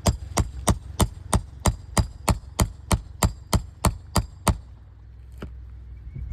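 Hammer driving a roofing nail into an asphalt shingle: about fifteen evenly spaced blows, roughly three a second, stopping about four and a half seconds in, then one last blow a second later.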